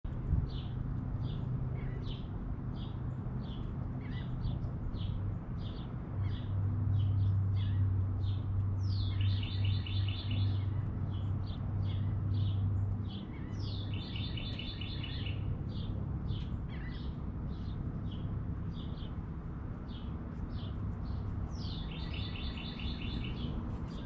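Small songbirds chirping in short repeated notes, about two a second, with a longer song three times: a downward slur followed by a fast run of notes. A low steady hum runs underneath and is louder for a stretch in the first half.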